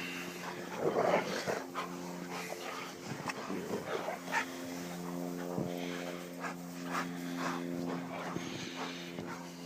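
Several dogs barking and yelping in play, in short irregular outbursts, loudest about a second in. A steady low hum runs underneath.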